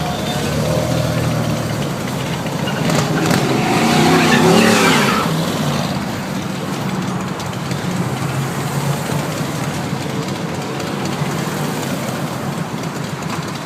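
Car engines running as a line of cruising cars rolls by. One car grows louder and passes about four to five seconds in, its pitch bending as it goes.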